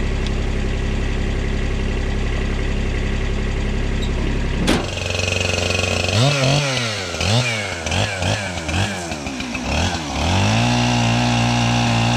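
An engine runs steadily, then after a click a chainsaw is revved in a series of short throttle blips, rising and falling in pitch. Near the end it settles into a steady high-speed run.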